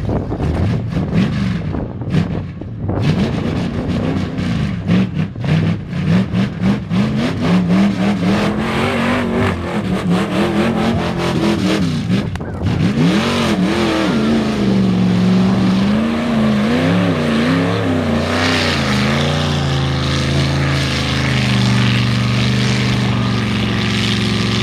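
Mud truck engine revving hard through a mud bog, its pitch surging up and down again and again, with rapid crackling pops in the first half and a steadier held rev near the end.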